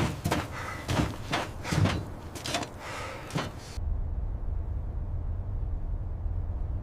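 A quick series of knocks or bangs, two to three a second, that stops suddenly about four seconds in and gives way to a steady low rumble.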